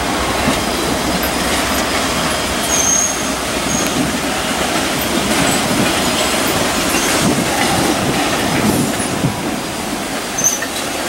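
Freight train of empty open-frame autorack cars rolling slowly past, wheels rumbling steadily on the rails. Brief high wheel squeals come twice, about three seconds in and near the end.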